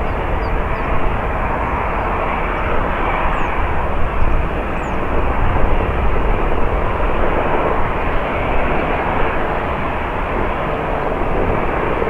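Jet airliner's engines: a loud, steady rush of noise that swells a little around the middle.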